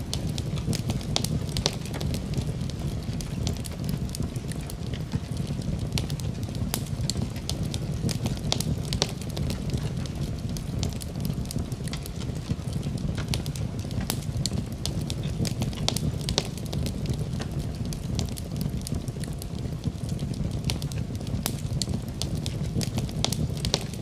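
Wood fire crackling in a fireplace: a steady low rumble of flames with frequent irregular sharp pops and crackles.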